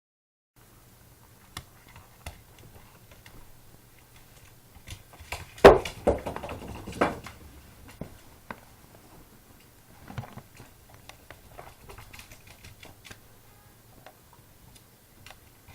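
Scattered light clicks and taps in a small room, with a loud knock about six seconds in followed by a second or so of clattering.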